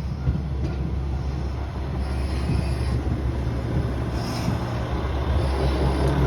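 Diesel railcar engine running in a steady low rumble as the train stands at the platform after arriving, growing louder near the end.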